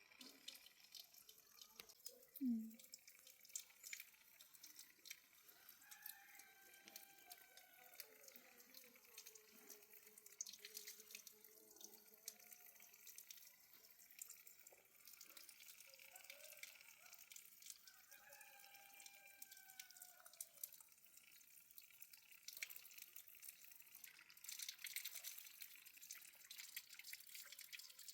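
Faint water dripping and trickling, with scattered small ticks and a brief low thud about two and a half seconds in.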